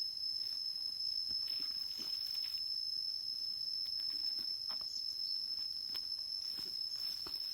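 Insects in the forest keep up a steady, high-pitched drone on one unbroken tone. Faint, scattered clicks and knocks sit over it.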